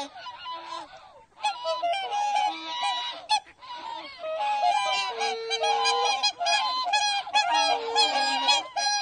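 Farm fowl calling: many short, repeated calls overlapping one another, with a brief lull about a second in.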